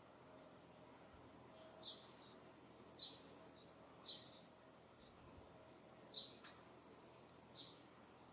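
Small birds chirping in the distance: a string of short, high chirps, several of them quick downward sweeps, about one a second over a faint steady hiss. A single sharp click about six and a half seconds in.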